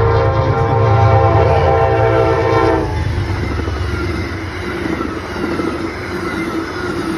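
A fast-moving train passing close by, its horn sounding over a heavy low rumble and cutting off about three seconds in. After that, the rush and rattle of the train going by slowly fades.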